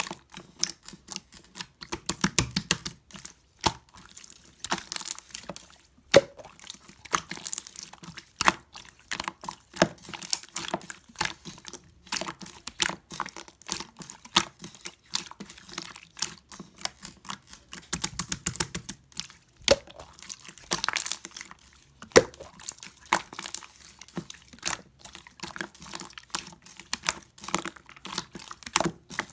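Soft 'pongdang' slime being squeezed, stretched and poked by hand, making a steady stream of wet clicks and small sticky pops with a few louder snaps.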